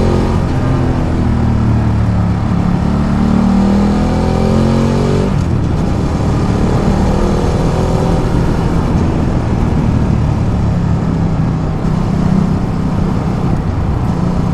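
Ducati Multistrada 1200 L-twin engine under way, its note climbing as the bike accelerates. About five seconds in the engine note drops away abruptly, leaving mostly wind and road noise, with the engine coming back faintly later on.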